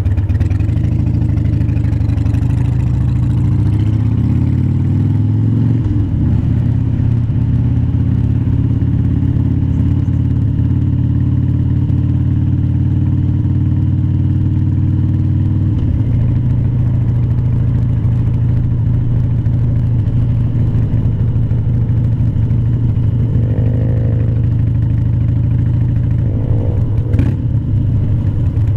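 Harley-Davidson Dyna Wide Glide's air-cooled Twin Cam 88 V-twin running under way. It rises in pitch as the bike pulls away, with changes in engine note about six and sixteen seconds in. A brief sharp click comes near the end.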